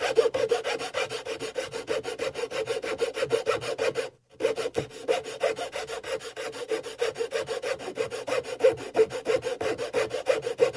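A file or rasp scraped quickly back and forth over wood in rapid, even strokes, about five a second, with one brief pause about four seconds in.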